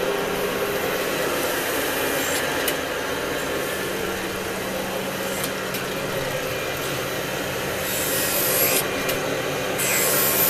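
Surface grinder running: a steady motor hum under the rasping hiss of the abrasive wheel grinding steel with coolant. The hiss grows louder twice near the end.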